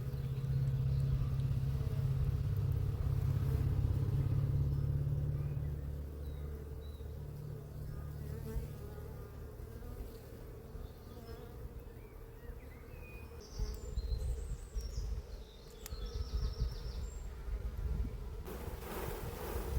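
Honeybees buzzing in a steady low hum over an open hive during an inspection. The hum is loudest for the first six seconds or so, then drops to a quieter drone.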